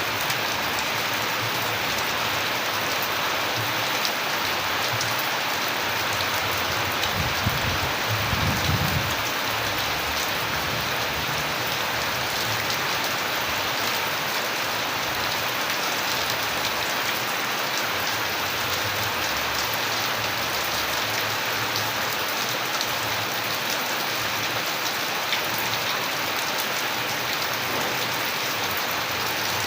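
Steady rain falling, a dense even hiss with fine drop patter throughout. A brief low rumble comes about a quarter of the way in.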